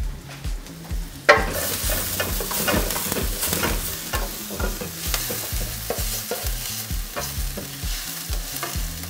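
Wooden spoon stirring and scraping diced onion, leek and garlic around a nonstick wok as they sizzle in a little oil. The sizzling and scraping jump louder about a second in, when the stirring starts.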